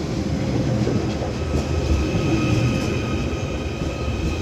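A Merseyrail class 777 electric train pulling into the station: a steady rumble of wheels on the rails, with a thin, steady high whine that comes up about halfway through.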